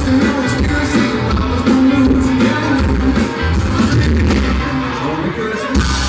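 Live country band playing a fast dance song at full volume, with drums, bass and electric guitar, heard as a muddy, bass-heavy audience recording.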